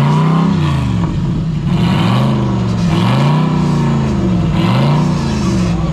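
Off-road 4x4 engine being revved hard again and again, its pitch rising and falling about once a second as the vehicle works to climb an obstacle.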